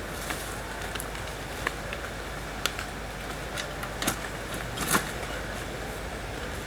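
Scattered light clicks and rustles from camping gear and bedding being handled, over a steady background hiss. The loudest two come a little after four seconds and about five seconds in.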